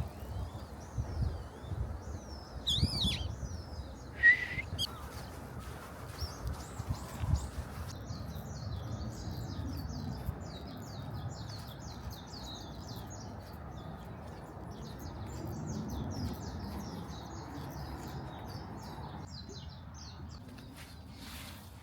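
Songbirds chirping: a few separate calls in the first few seconds, then a long run of quick, high chirps. Soft low thumps sound in the first several seconds, under a steady outdoor hiss.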